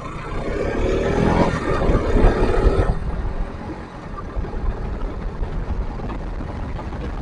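Motorcycle engine revving as the bike pulls away, its pitch rising for about two seconds, then running steadily. Heavy wind rumble on the microphone throughout.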